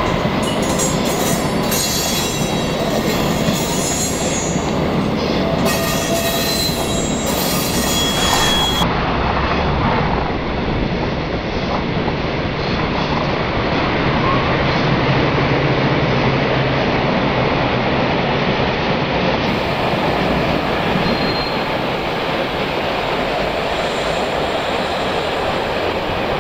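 Trains running past on the track in several recordings cut together: a steady rolling noise with a few thin squealing tones. The sound changes abruptly twice where one recording gives way to the next.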